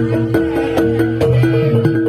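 Traditional East Javanese gamelan music accompanying a jaranan dance: struck metal notes alternate between two pitches over a steady run of drum strokes.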